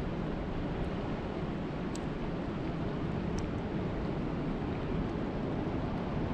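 Steady rushing noise of lake water, strongest in the low range, with a couple of faint ticks about two and three and a half seconds in.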